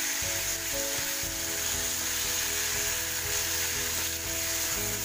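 Raw chicken pieces sizzling steadily in hot oil and ginger-garlic paste on a flat tawa, stirred with a wooden spatula. Background music plays with held notes.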